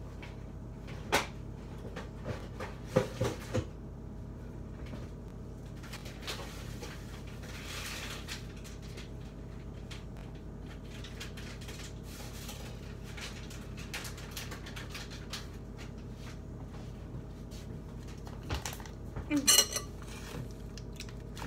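A spoon clinks and scrapes against a bowl as dry brownie mix is spooned in, with scattered light knocks and a brief soft hiss about a third of the way in. A louder cluster of clinks comes near the end.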